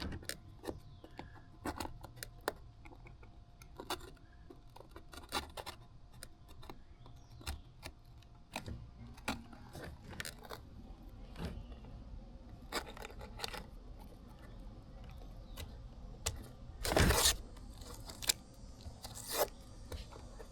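Workbench handling noises as masking tape and a piece of plastic are cut and fitted into a template: scattered small clicks, taps and scrapes, with one louder rustling scrape about 17 seconds in.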